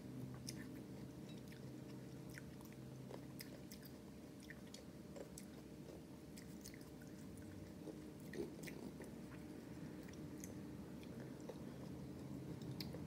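A person chewing and eating green grapes: faint, scattered wet mouth clicks and smacks. Underneath is a steady low hum.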